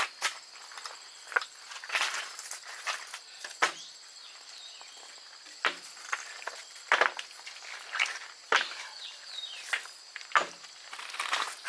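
Irregular rustling and crunching in dry undergrowth, a dozen or so short sharp sounds, over a steady high-pitched insect drone.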